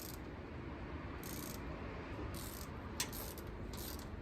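Ratchet wrench clicking in short strokes, roughly one a second, with a sharp click about three seconds in. It is turning a rocker-arm adjusting nut on a small-block Chevy V8 while the valve lash is set.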